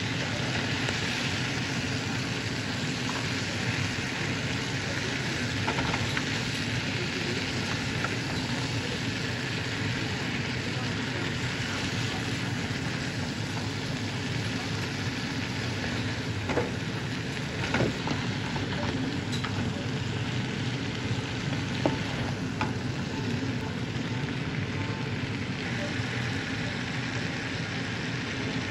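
Chicken breast and mixed vegetables sizzling steadily in a hot frying pan as they are stir-fried, with a few light knocks of the wooden spatula against the pan around the middle.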